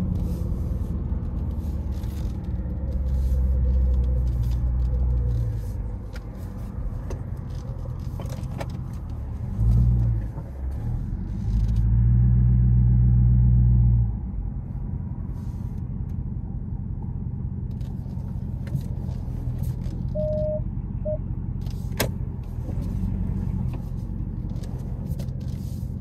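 Dodge Charger SRT V8 engine rumbling at low speed, heard from inside the cabin. It swells louder three times, longest a little past the middle, then settles back to a steady low burble.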